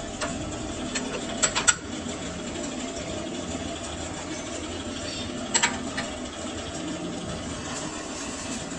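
Lathe running steadily, with a few sharp clicks: two about one and a half seconds in and another just past halfway.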